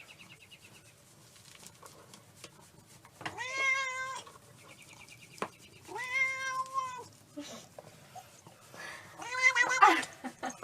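Domestic cat meowing: three long, drawn-out meows a few seconds apart, the last one louder and wavering in pitch.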